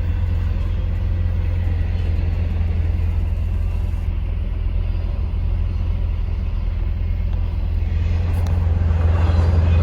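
Pontiac Fiero driving on the road: a steady low rumble of engine and road noise, growing a little louder near the end.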